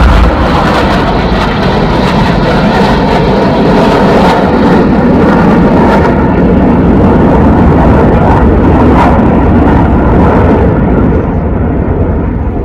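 Loud jet aircraft noise at an airshow display: a steady rumble and roar that holds for about ten seconds, then begins to fade near the end as the aircraft draw away.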